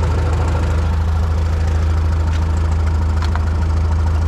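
An engine idling steadily, a low even hum with a fast pulse, and a couple of faint clicks over it.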